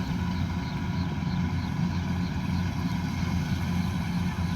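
Kubota combine harvester's diesel engine running steadily with a low hum, and a faint rapid ticking of about five ticks a second in the first half.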